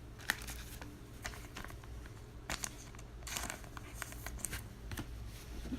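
Trading cards being handled: faint rustling and scattered light clicks as cards are slid and shuffled through by hand.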